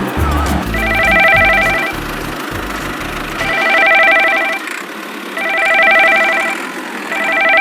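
Telephone ringing: four trilling rings, each about a second long and about two seconds apart.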